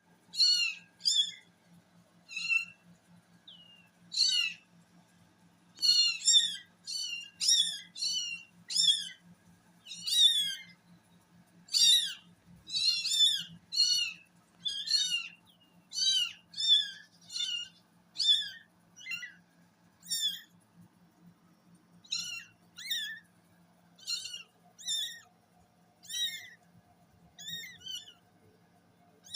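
Very young kittens mewing: many short, high-pitched cries, one to two a second, sometimes several in quick succession, over a faint steady low hum.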